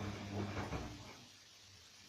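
Bosch washing machine turning its drum during a cotton wash: the motor hums steadily under a swish of the wet laundry, then stops about a second in as the drum pauses between turns.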